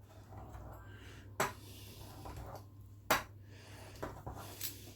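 Pizza cutter wheel run across a sheet of minced-chicken mixture on the worktop, with faint rolling and sharp clicks of the cutter against the worktop about one and a half and three seconds in, and lighter ones near the end.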